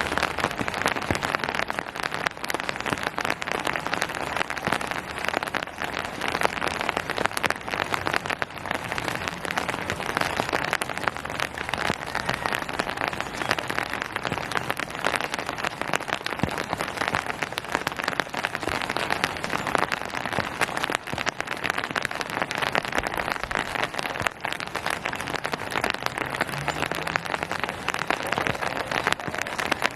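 Steady rain falling on surfaces, a dense pattering of raindrops.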